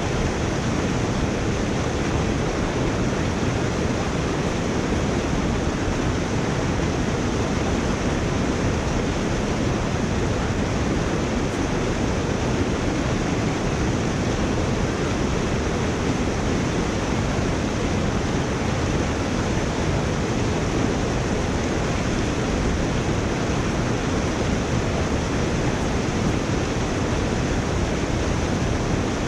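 Water rushing steadily through a culvert drain, a loud, even rush that does not change.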